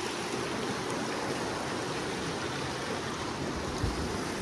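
River water rushing steadily over rocks, with one soft low knock near the end.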